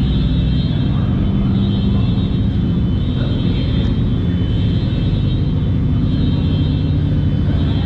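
Car engines idling with a steady low rumble, with a faint steady high whine above it.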